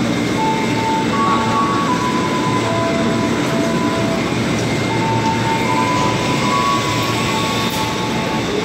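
Steady running noise of a locomotive-hauled economy-class passenger train heard inside the coach: a continuous rumble of the train moving along the rails, with faint high tones that shift in pitch every second or so.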